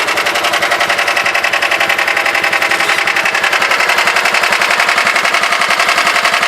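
John Deere 180 lawn tractor engine idling steadily in a rapid, even beat, with a little rasp to it.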